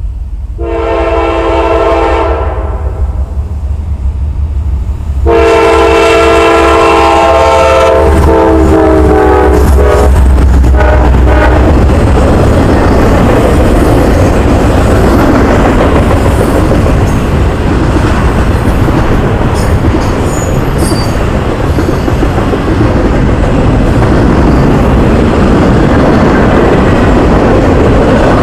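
Diesel freight locomotive's air horn blowing twice as the train approaches, a short blast then a longer one, with several tones sounding together. The locomotives' engine rumble goes by, then a double-stack intermodal train's wheels roll past steadily on the rails, with a few faint high squeaks.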